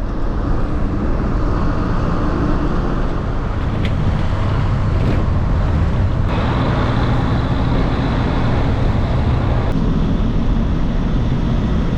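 Waterfall: falling water rushing in a loud, steady roar, changing character abruptly about six seconds in and again near ten seconds.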